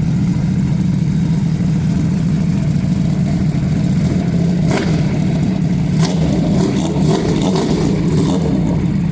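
Sport-bike engine with an aftermarket full-system exhaust running at a steady engine speed: a steady deep exhaust note. From about five seconds in, short sharp cracks sound over it.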